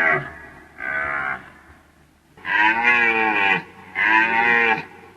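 A deer calling: a series of drawn-out, moo-like calls, each under a second, rising and falling in pitch. Three full calls come about a second, two and a half and four seconds in, one tails off at the start, and another begins at the very end.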